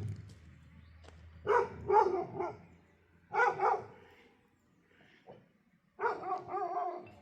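A dog barking in three short bouts of a few barks each.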